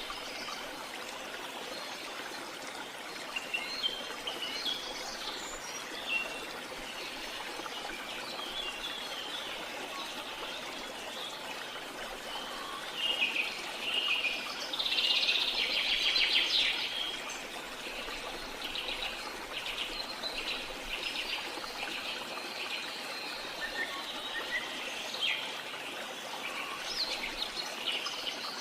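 Waterfall running steadily, with birds chirping and calling over it. A louder stretch of rapid calls comes about halfway through.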